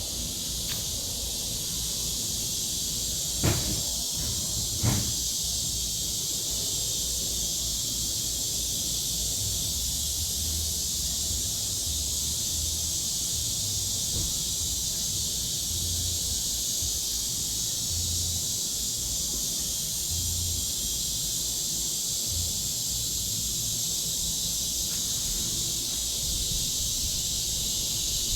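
Chorus of cicadas: a steady, high-pitched buzzing drone that holds at an even level throughout. Two short knocks sound about three and a half and five seconds in.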